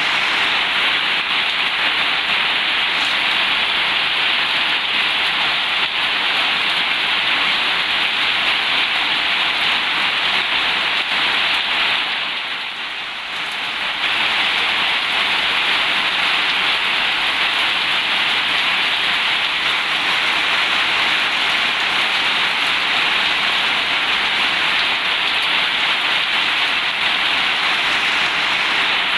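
Heavy rain falling steadily on a zinc roof, a dense even hiss. It softens briefly a little before halfway, then returns abruptly at full strength.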